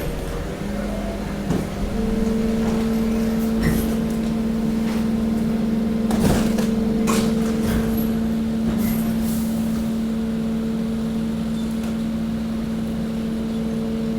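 Hydraulic waste compactor pressing mixed waste: the hydraulic pump runs with a steady hum that steps up slightly in pitch within the first two seconds, over scattered cracks and crunches of the waste being crushed, the loudest about six seconds in.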